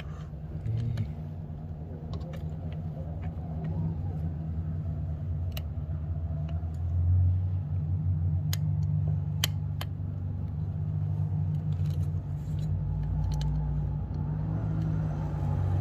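Scattered sharp metallic clicks and taps of small parts and a screw being handled and fitted on a motorcycle footpeg, over a steady low rumble.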